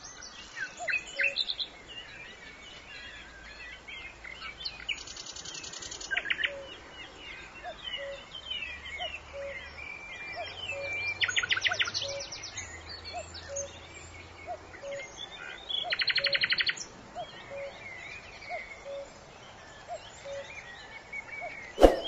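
Several birds chirping and whistling, with three rapid loud trills (about 5, 11 and 16 seconds in) and a soft note repeating about once a second underneath. A sharp click right at the end.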